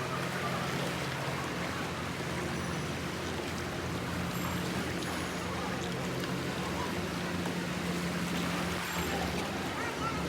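An engine running steadily at an even low drone, over a hiss of water and wind.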